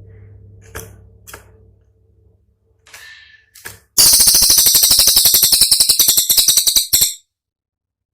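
Cililin song: a few faint short chirps, then a loud, very fast rattling burst of sharp high notes, about thirteen a second, lasting about three seconds and cutting off suddenly.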